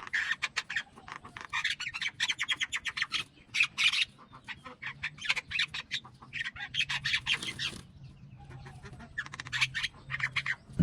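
Mynah bird calling in bouts of rapid, harsh chattering notes, about seven bursts with short pauses between them.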